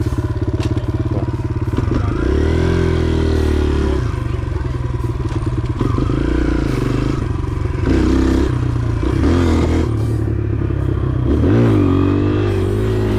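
Motorcycle engine running just after starting, blipped several times so that its pitch rises and falls in a few revs between stretches of steady running.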